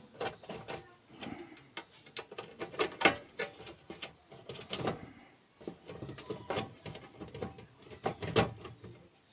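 Irregular small clicks and knocks of a screwdriver undoing the screws of a voltage stabilizer's top cover, with a few louder knocks, over a steady high-pitched chirr.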